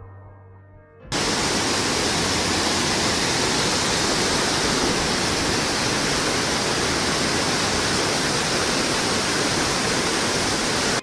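Soft music for about a second, then a loud, steady rushing noise cuts in suddenly and holds without change, stopping abruptly at the end.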